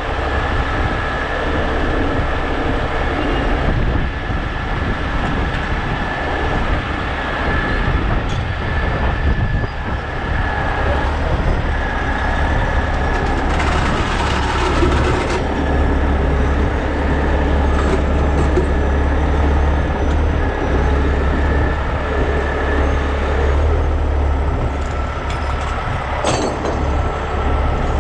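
Heavy diesel truck engine running steadily, with a thin whine that comes and goes above the rumble.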